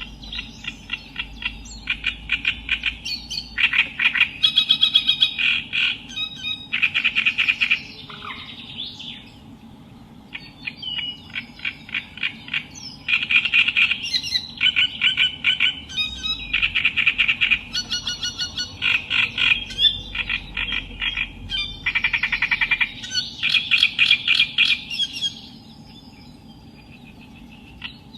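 Reed warbler (Acrocephalus) singing: phrases of rapid, harsh, repeated chattering notes lasting a few seconds each. There is a longer pause about eight seconds in and another near the end.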